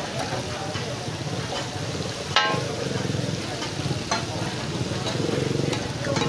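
Chicken pieces sizzling on a large flat tawa griddle while a metal spatula and tongs scrape and clink against it. There is one sharp ringing metallic clink about two and a half seconds in, and lighter clicks later.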